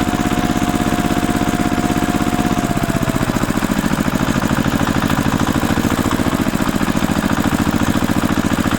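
Vehicle engine running steadily with a fast, even pulse, its pitch dropping slightly about two and a half seconds in.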